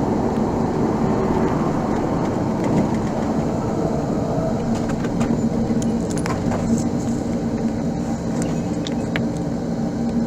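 A vehicle driving, with a steady engine hum and road noise. From about halfway on, light clicks and rattles come through now and then.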